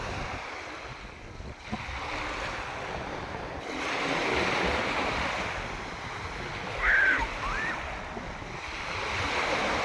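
Sea waves washing onto the beach, the surf swelling and easing twice, with wind on the microphone. A brief high cry rings out about seven seconds in.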